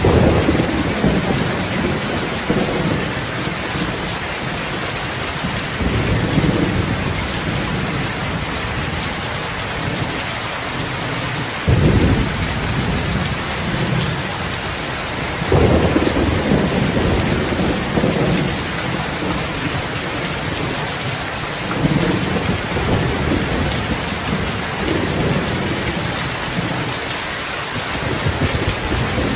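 Heavy rain falling steadily, with repeated rolling rumbles of thunder; the sharpest rolls break in about 12 and 16 seconds in.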